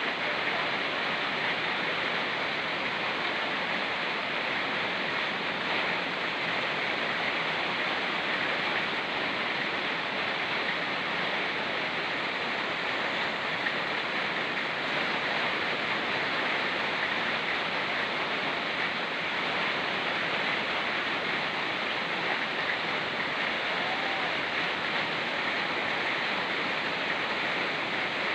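Rain falling together with a fast-flowing mountain river: a steady, even rush of water that does not change.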